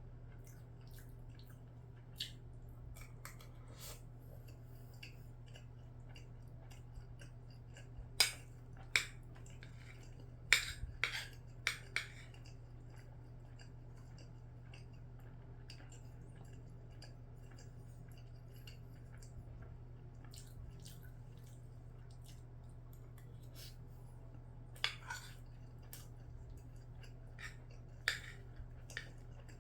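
Eating utensils clicking and clinking against a bowl while someone eats, with a handful of sharp clicks about eight to twelve seconds in and again near the end, and faint chewing between them. A steady low hum runs underneath.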